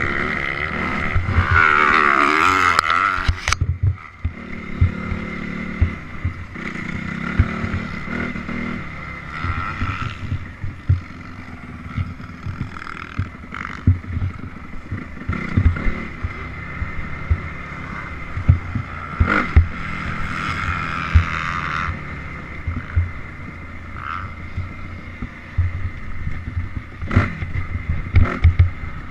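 Honda CRF250R's single-cylinder four-stroke engine running and revving as the bike is ridden off-road, loudest for the first few seconds, with frequent short knocks and thumps throughout.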